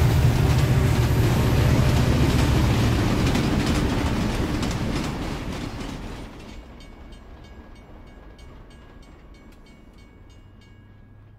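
Train running with a heavy low rumble and rhythmic wheel clatter, fading out about halfway through and leaving only faint ticking.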